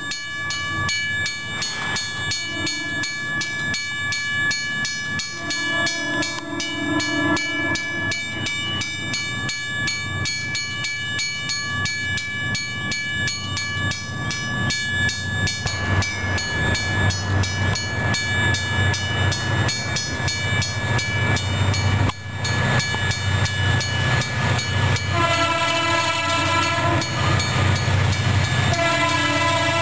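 Diesel locomotive working at full throttle (notch 8) as it approaches, its engine growing louder in the second half. Its air horn sounds in separate blasts, two early on and two more near the end.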